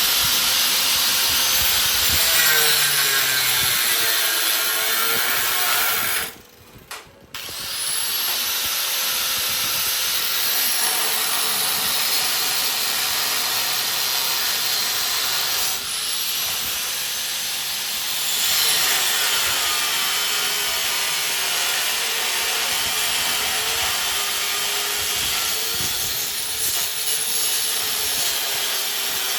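Angle grinder cutting and notching a steel rack piece, its whine dipping and recovering in pitch as the disc bites into the metal. It stops for about a second around six seconds in, then runs on.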